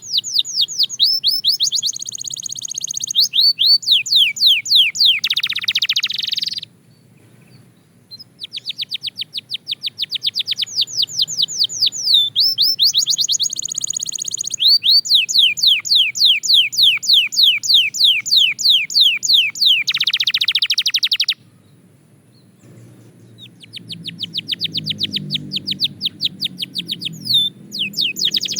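Belgian canary singing long phrases of rapid, evenly repeated sweeping notes that change type from tour to tour, with two short pauses.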